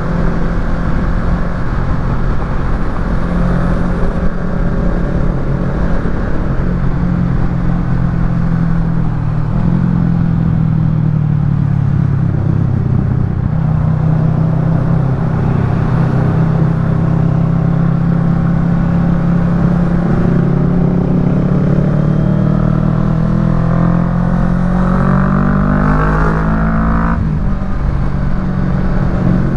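Kawasaki Ninja 650's parallel-twin engine through a Yoshimura Alpha carbon-fibre full exhaust, running at steady revs while riding. Near the end it climbs in pitch for about five seconds under acceleration, then drops off suddenly.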